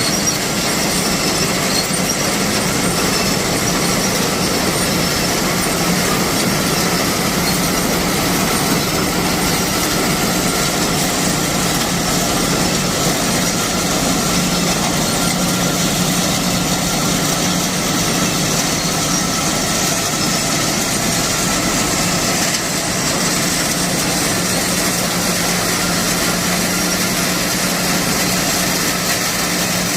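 Crop harvesting machine for beans, peanuts and corn running steadily, a constant mechanical hum under a dense rattle.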